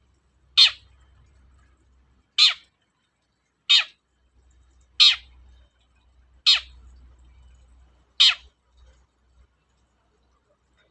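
Long-tailed shrike (cendet) giving six short, harsh calls spaced one to two seconds apart, each ending in a downward sweep.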